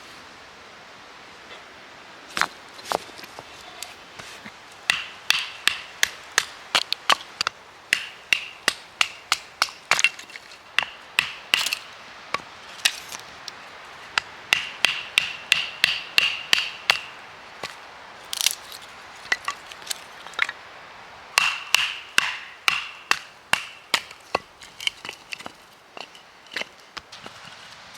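Irregular runs of sharp knocks and clacks, a few a second, some with a brief ringing, from hard objects being struck or set against each other by hand.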